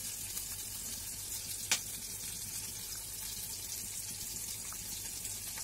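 Onions shallow-frying in oil in a kadhai, sizzling steadily with fine crackle. One sharp click about two seconds in.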